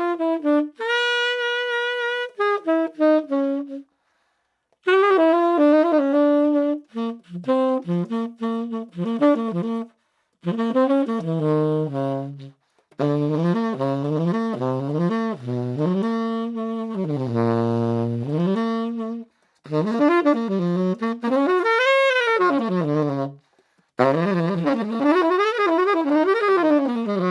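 SaxWorks Master Series SML tenor saxophone played solo in a jazz style: phrases broken by short pauses, a long low held note about two-thirds of the way through, and fast runs sweeping up and down the horn near the end.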